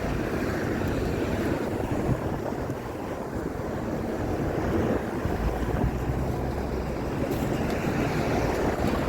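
Strong wind buffeting the microphone: a steady, rumbling rush of wind noise.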